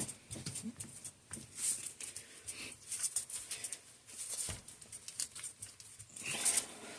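Clicks, taps and soft rustling from a mountain bike suspension fork and its remote lockout being worked by hand, with one louder knock about four and a half seconds in. The lockout is set but is not working.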